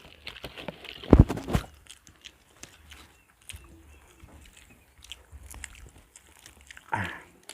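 People chewing and eating soft rice cake (bingka), with faint mouth clicks and small ticks. A couple of louder knocks come about a second in, and a short vocal sound near the end.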